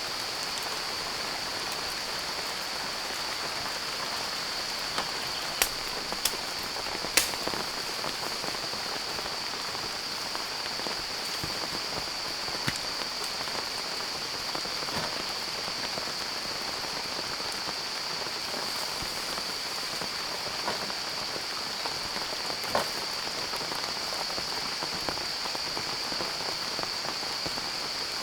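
Steady rain falling, with occasional louder drops hitting close by and a steady high-pitched drone underneath.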